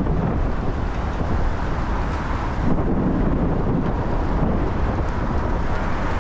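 Car driving on rain-wet city streets: a steady rumble of road and wind noise with tyre hiss, swelling briefly about three seconds in.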